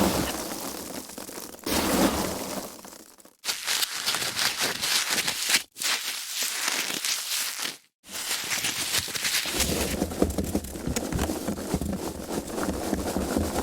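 Foam packaging being handled, rubbing and crinkling in a busy crackly run. It comes in several separate takes, with abrupt cuts at about three and a half, five and a half, and eight seconds in.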